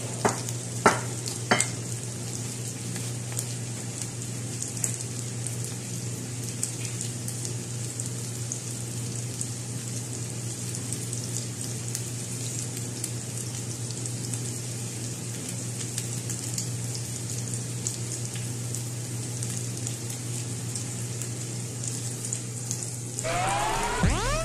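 Cabbage-and-egg patties sizzling and crackling in oil in a nonstick grill pan, over a steady low hum, with three sharp clicks in the first two seconds. Music comes in near the end.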